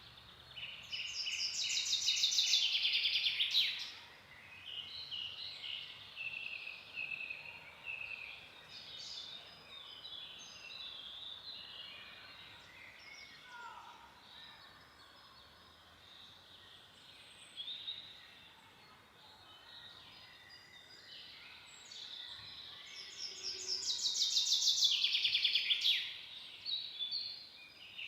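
Forest songbirds singing. One bird's loud, rapid trilled song swells and then stops abruptly, once near the start and again near the end, with softer calls and phrases from other birds in between.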